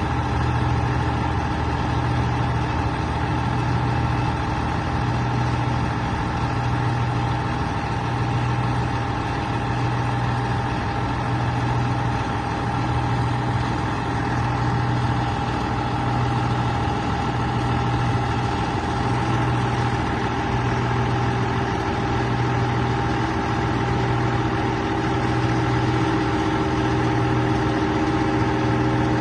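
Scania 113H-320's six-cylinder turbo diesel engine running steadily with no change in revs, its low hum throbbing slowly about once a second.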